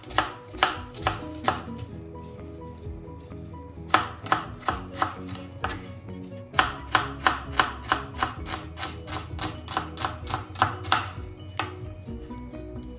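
Kitchen knife chopping an onion on a bamboo cutting board: sharp taps of the blade on the wood in quick runs of about three a second, with short pauses between runs, stopping a little before the end.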